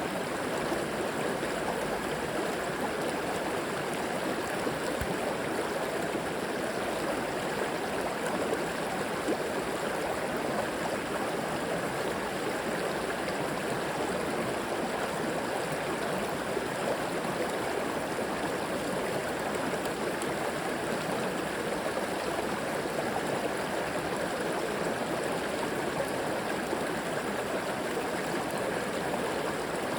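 A shallow river flowing steadily over stones, a constant rushing and babbling of water.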